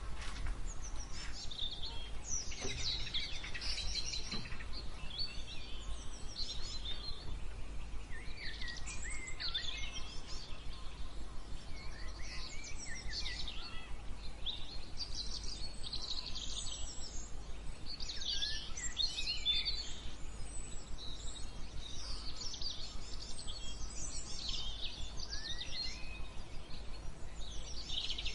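Several songbirds chirping and singing in overlapping high phrases and trills, over a steady low background rumble.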